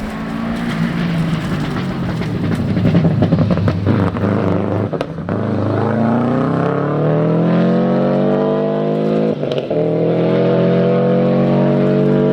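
Four-wheel-drive rally car accelerating hard, its engine note climbing steadily in pitch, with a quick break for an upshift about five seconds in and another about nine and a half seconds in.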